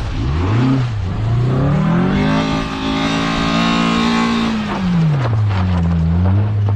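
Austin Mini's four-cylinder engine revving hard while driven: a quick blip, then a climb to high revs that holds for a couple of seconds and drops back, with another short blip near the end.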